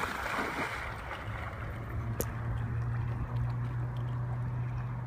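A steady low motor hum, strengthening about a second in, over faint water noise, with a single sharp click about two seconds in.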